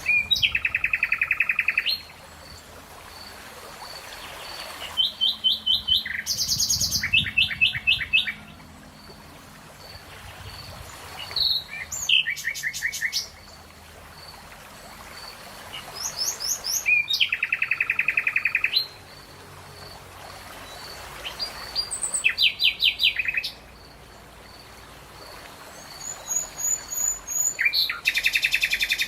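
Songbirds singing: loud phrases of fast, evenly repeated notes, each lasting a second or two and coming about every five seconds, over a faint high note repeated steadily a few times a second.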